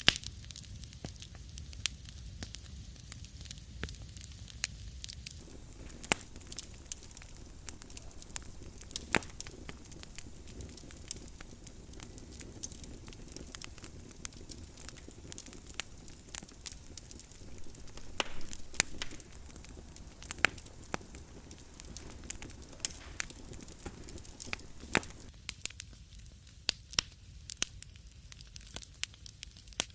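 Wood fire crackling in a fireplace, with frequent sharp pops and snaps over a low steady rumble. A soft hiss joins about five seconds in and drops away near the end.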